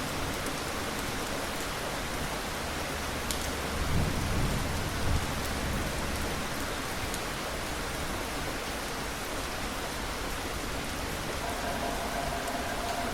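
Steady rain falling, with a brief low rumble of thunder about four seconds in.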